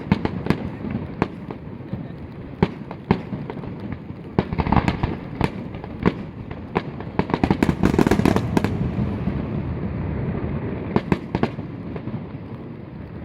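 Fireworks display: aerial shells bursting in a string of sharp bangs over a continuous low rumble, with a rapid cluster of reports about seven to nine seconds in and a couple more near the end.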